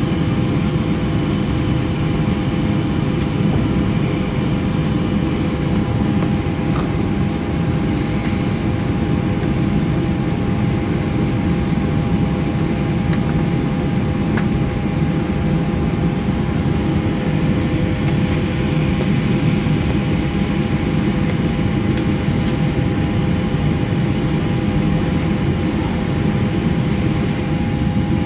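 Steady cabin noise inside a Boeing 737-500: an even low rumble with two constant whining tones above it, unchanging in pitch or loudness.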